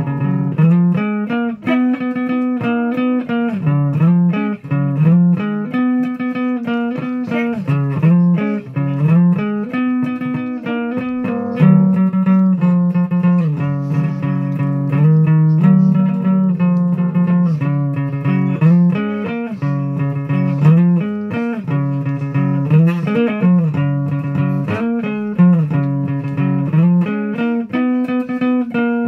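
Guitar music: a continuous run of plucked notes changing every half second or so, the strongest in a low register, with no singing.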